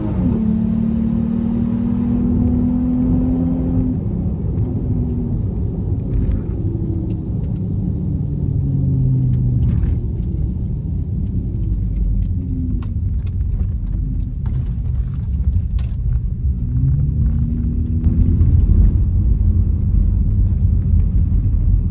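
A Dodge Charger's 3.6-litre Pentastar V6 running through the end of a drag pass. Its note drops sharply just after the start, holds steady for a few seconds, falls in pitch as the car slows, and rises again near the end, with scattered light clicks in the middle stretch.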